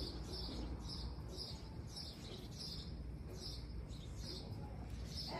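A bird chirping over and over, short high notes at an even pace of about two a second, over a steady low background rumble.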